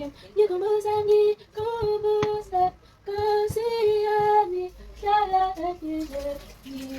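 A woman singing a slow melody with no backing, holding and gliding between notes in short phrases, with a few light clicks and knocks beneath.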